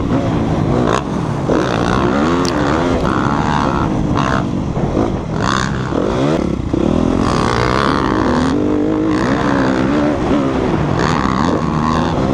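Motocross dirt bike engine revving close to the microphone, its pitch climbing and dropping again and again as the throttle is worked through the gears and off.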